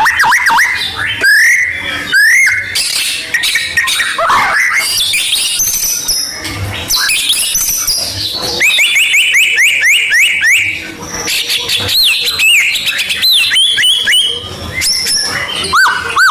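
White-rumped shama (murai batu) singing a fast, varied song of whistled phrases, with runs of quick repeated up-and-down notes.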